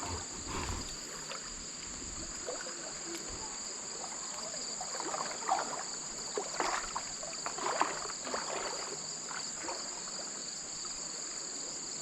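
Summer insects shrilling steadily in two high-pitched tones, with irregular splashes and sloshes of creek water, loudest around the middle.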